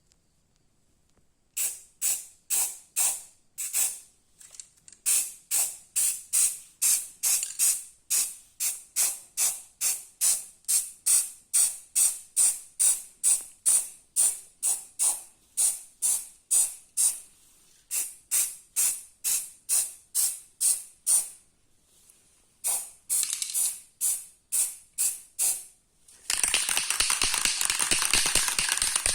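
Aerosol spray-paint can being shaken, its mixing ball rattling in quick even strokes about two to three a second, with a short pause partway. Near the end it gives way to a steady hiss of paint spraying from the can.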